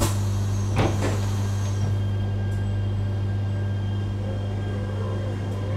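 Cabin running noise of a Yamagata Shinkansen Tsubasa train just after departure: a steady low hum, with a sudden sharp noise at the start and a knock about a second in.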